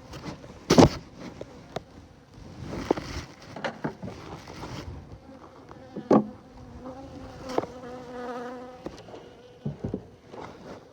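Honeybees buzzing close by, one buzz standing out clearly for about two seconds past the middle, with knocks and rustling from working the hive. The loudest sound is a sharp knock about a second in.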